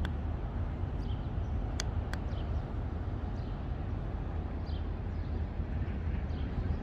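Steady low city rumble, with small birds giving short chirps several times and two sharp clicks about two seconds in.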